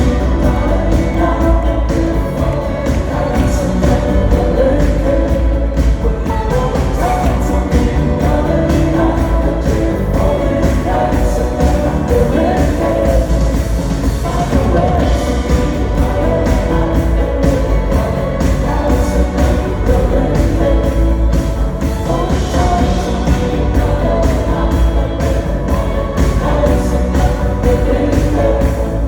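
A pop-rock band playing live, with a singer over a steady drum beat and heavy bass.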